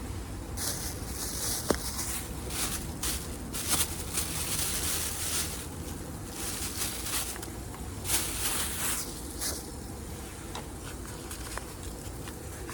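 Wood fire in a FIREBOX stove crackling, with irregular sharp pops and surges of hiss that come and go through the first three-quarters and ease off near the end.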